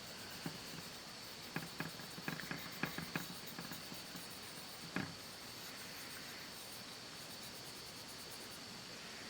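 A few light clicks and taps of small parts and tools being handled at a workbench: a quick cluster of about a dozen in the first few seconds and one more about five seconds in. Under them runs a steady faint hiss with a thin high tone.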